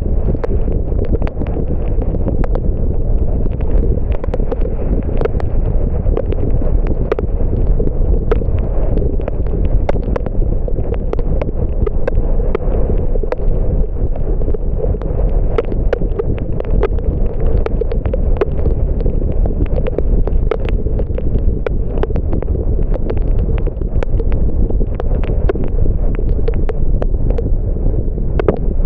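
Steady low rumble of tyre and wind noise from a car driving on wet roads, with many irregular sharp ticks of raindrops striking.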